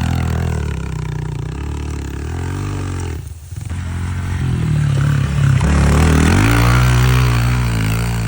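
Pit bike engine revving up and down under throttle, dipping sharply for a moment about three seconds in, then climbing to high revs and easing off near the end.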